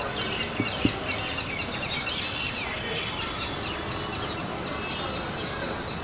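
Birds chirping, rapid trains of short high notes that are busiest in the first half, over steady outdoor background noise. Two short knocks sound under a second in.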